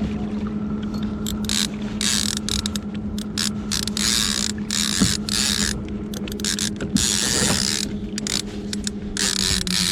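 Trolling reel's drag clicker running as a hooked salmonid strips line off the reel: a steady ratcheting buzz with irregular louder surges as the fish pulls.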